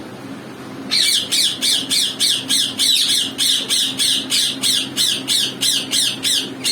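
Parakeet giving a fast run of short, harsh squawks, about four a second, each call falling in pitch, starting about a second in; the kind of calling heard when a pair is courtship-feeding.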